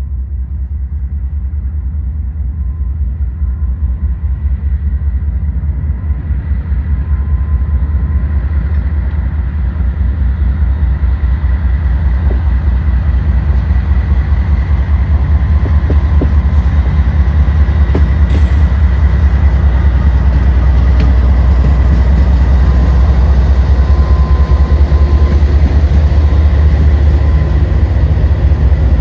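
Diesel freight locomotive approaching, its engine rumble growing steadily louder as it nears.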